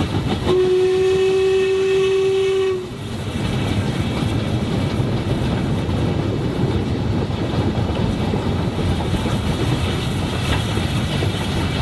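A steam train sounds one long whistle blast lasting a little over two seconds on a single steady note. It then keeps running along the track with a steady rumble.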